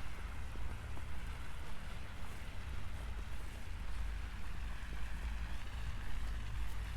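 Outdoor city ambience on a winter night: a steady low rumble under an even hiss, with faint scattered ticks.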